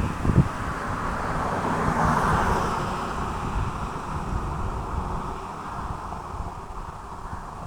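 A distant vehicle's rushing drone that swells about two seconds in and slowly fades, with wind buffeting the microphone.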